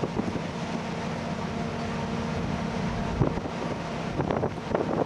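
Steady drone of a coastal cruise ship's engines under way, with a low hum and wind rushing across the microphone that gusts a few times near the end.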